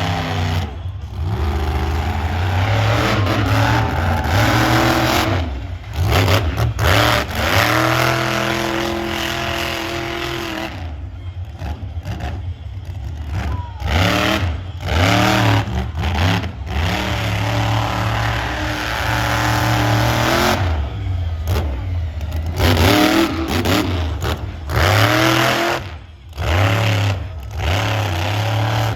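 Monster truck engine revving hard over and over, its pitch climbing and falling with the throttle, with several brief cuts where it drops off and comes back.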